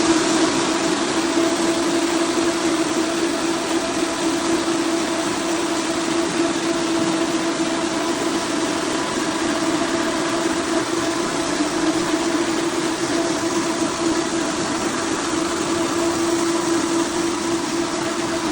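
Bona Power floor machine running steadily: an even motor hum over a broad hiss.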